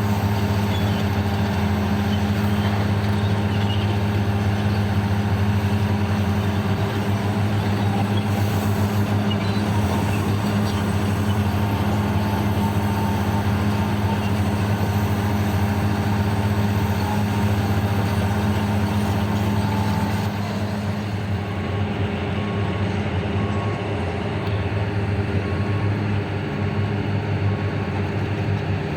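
Heavy diesel engines of mining machines running steadily with a deep, even hum, easing off slightly about twenty seconds in.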